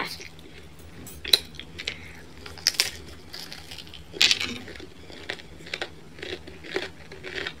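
Crunching and chewing of crisp thin-crust pizza crust: scattered short, sharp crunches and clicks a second or two apart, the strongest about a second in and about four seconds in as a bite is taken.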